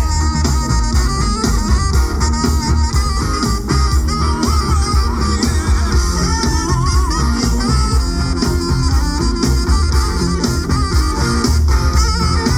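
Live band playing an instrumental stretch of an upbeat pop song: a lead guitar line over drums and bass with a steady beat.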